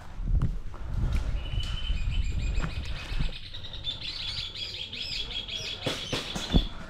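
A songbird sings a fast, repeating warbled trill, over low rumbling and knocking from movement close to the microphone. A few sharp clicks come near the end.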